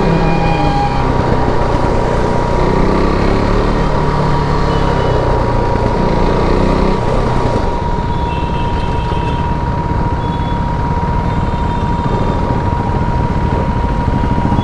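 KTM RC 390's single-cylinder engine running on the move through its stock exhaust, over a steady rush of wind and road noise; its pitch eases down through the first half.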